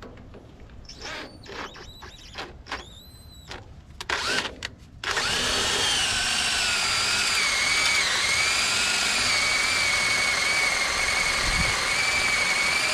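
Electric drill run in several short trigger spurts, each whining up and dropping away, then held on at a steady high whine for about eight seconds, the pitch sagging briefly now and then under load.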